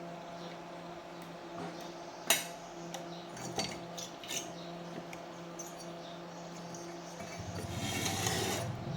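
Metal parts clicking and clinking over a steady hum, with one sharp click a little over two seconds in and a few lighter clinks soon after; a rough buzzing noise starts near the end.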